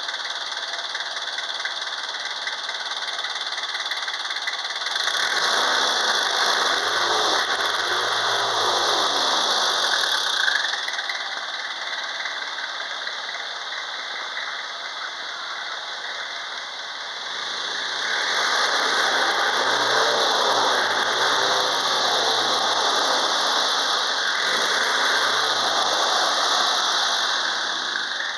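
Nissan QD32 3.2-litre four-cylinder diesel engine running, with a diesel clatter. It is brought up in speed twice for several seconds each, about 5 seconds in and again near 18 seconds, and settles back to idle between.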